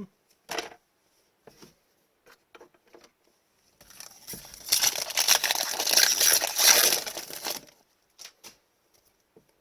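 A foil trading-card pack wrapper being torn open and crumpled, a crinkling rustle lasting about four seconds in the middle. Light clicks of cards being handled come before and after it.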